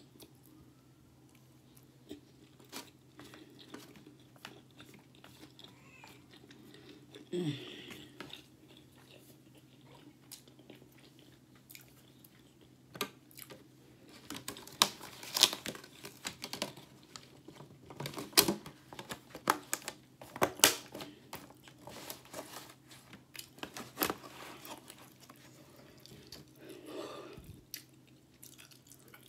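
A person chewing a spicy crab volcano sushi roll: irregular wet crunches and mouth clicks, thickest about halfway through.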